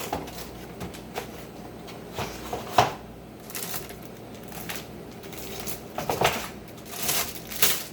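Food containers and bags being handled and set down as a refrigerator is emptied: scattered clicks, knocks and rustling, with the sharpest knock about three seconds in and a few more near the end.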